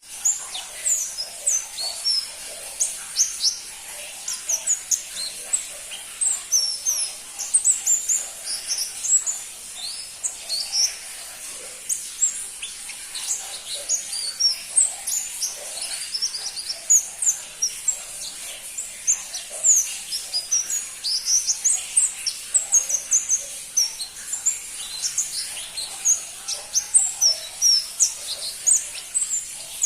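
Pentis pelangi, a small flowerpecker, calling: a continuous run of very short, high, sharp chirps and ticks, several each second.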